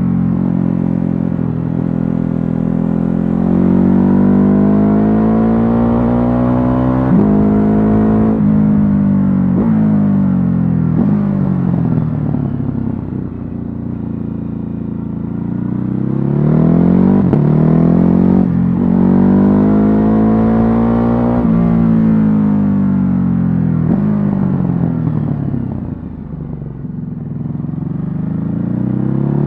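Stock Ducati Hypermotard 950's 937 cc L-twin engine under way, revving up and dropping back with a quick run of upshifts early on. It eases off to lower revs around the middle, pulls hard through the gears again, then slows once more near the end before picking up.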